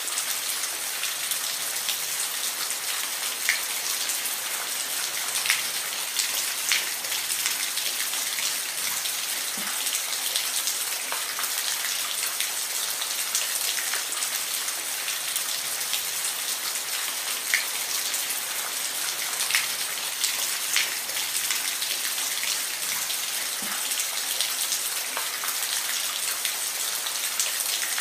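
Steady rain falling, an even hiss with scattered louder individual drops landing close by.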